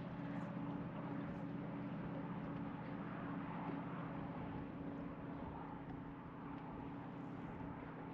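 A boat motor running steadily, a low even hum with several steady tones, over wind and water noise.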